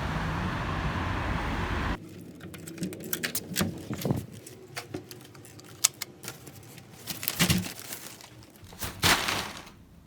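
Steady street noise cuts off about two seconds in. Quieter scattered clicks and crinkling follow: paper food packaging being handled.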